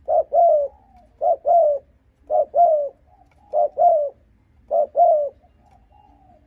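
Spotted dove cooing in quick repeated two-note phrases, a short note then a longer falling one, five times at about one a second, with a softer drawn-out note near the end. This is the rapid 'gù' cooing played to rouse wild doves to a decoy.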